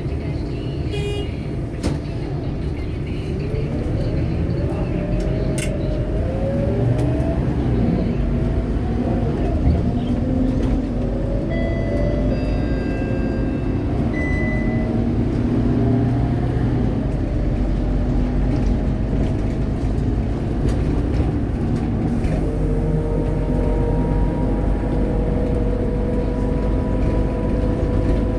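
Scania K230UB city bus's diesel engine and drivetrain running under way, its pitch rising as it pulls away, then settling into a steady whine that climbs slowly near the end. A few short electronic beeps sound about twelve seconds in.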